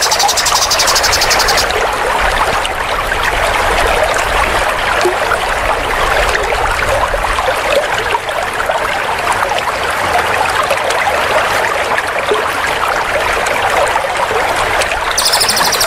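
Dense, unbroken chattering of many small songbirds calling over one another, from a recording made for training competition songbirds. A very rapid, high-pitched trill is heard in the first second or two and returns near the end.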